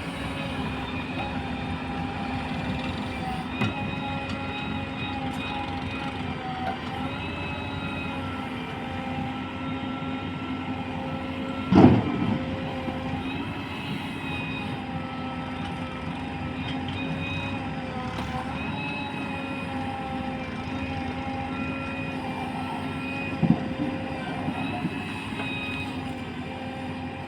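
Heavy diesel engine running steadily at a constant speed, with a loud thump about halfway through and a smaller one near the end.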